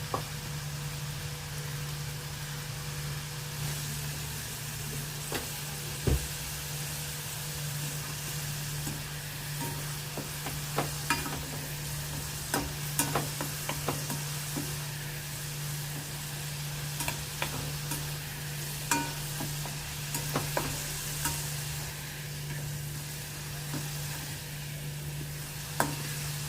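Masala-coated okra pieces deep-frying in hot oil on a high flame, a steady sizzle, with scattered taps and scrapes of a ladle stirring them in the pan.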